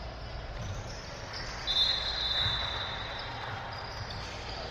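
Basketball bouncing on a gym court over steady crowd and court noise. A short, shrill referee's whistle blast sounds a little under two seconds in.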